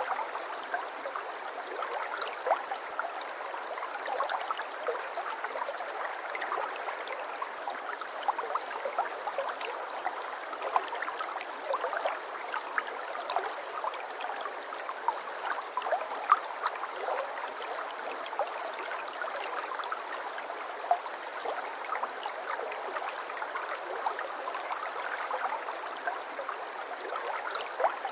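Shallow babbling brook: water running and gurgling over stones, a steady wash dotted with many small quick splashes and bubbling spikes.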